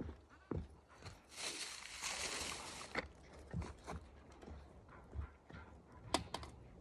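Scattered knocks and clicks with a rustling stretch from about one to three seconds in: someone moving about and handling things.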